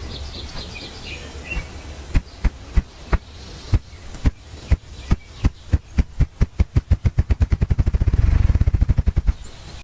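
Ruffed grouse drumming: a male beats his wings to make deep, hollow thumps that begin slowly a couple of seconds in, speed up steadily and run together into a low whir before stopping suddenly. Faint bird chirps are heard at the start.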